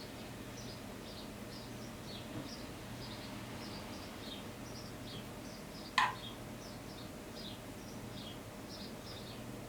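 Small bird chirping over and over in short, high, falling notes, with one sharp click about six seconds in.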